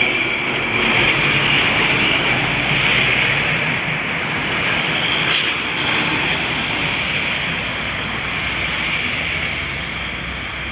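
Steady running noise of a road vehicle, with a brief sharp click about five seconds in.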